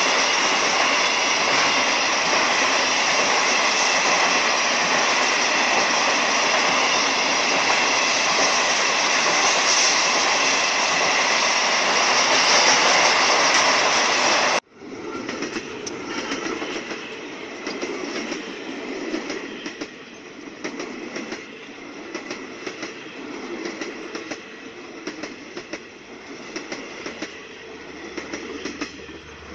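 Passenger train carriages passing close by, a loud steady rush of wheels and bodies. About halfway through it cuts off suddenly to a quieter train rolling past, with the click-clack of wheels over rail joints.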